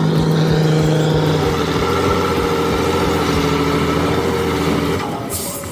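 Heavy truck's diesel engine running steadily under load, its note shifting slightly about a second and a half in. The engine drops away near the end and a short hiss follows.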